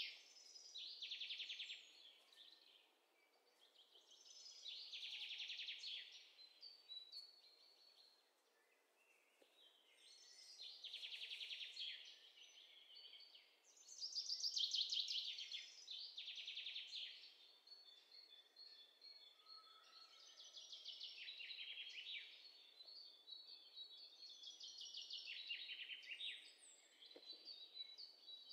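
Faint bird song: repeated trilled phrases, each made of rapid notes falling in pitch, coming every few seconds.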